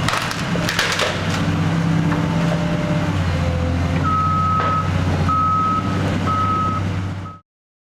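Heavy diesel demolition machinery running, with sharp cracks and knocks in the first second or so, then a backup alarm beeping three times from about four seconds in. The sound cuts off suddenly near the end.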